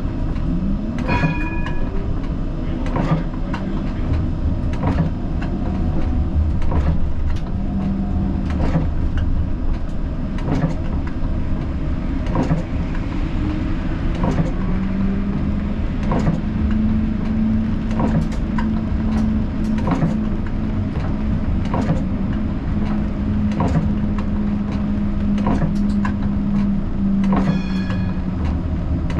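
Siemens Combino tram running on rails, heard from the cab: a steady low rumble with sharp clicks about once a second. A hum rises in pitch about a second in as the tram picks up speed, and a steady hum holds from the middle to near the end.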